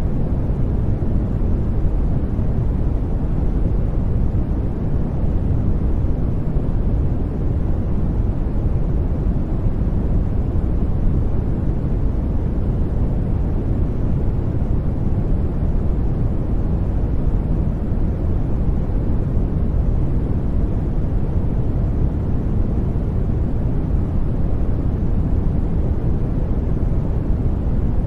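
Steady sleep 'white noise' track: an even, deep rushing hiss with most of its weight low, unchanging throughout.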